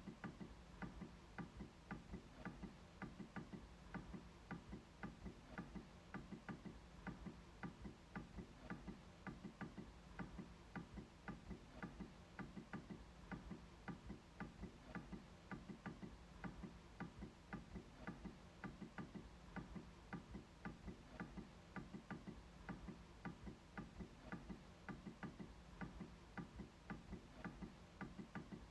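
MacBook trackpad clicked over and over: faint, dry clicks at a fairly steady pace of a few per second.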